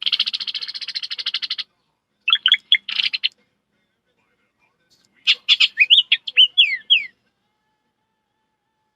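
A person imitating bird calls by mouth. First a fast trill of over a second, then a few falling whistled notes with a short buzzy burst, and about five seconds in a run of sharp notes and falling whistles.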